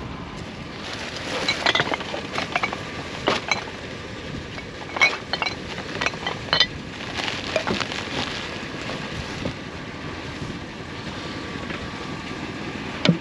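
Junk being handled and set down: a scattered series of clinks and knocks, the loudest about halfway through, over a steady background hiss.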